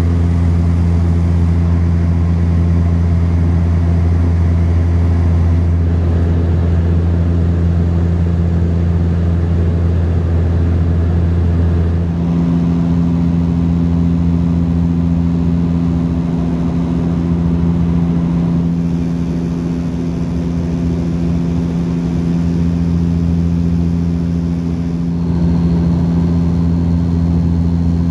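Dash 8 turboprop's engines and propellers droning steadily in the cabin in flight: a loud, low, even hum with several fixed tones. About 12 s in, the balance of the tones shifts and the deepest one weakens.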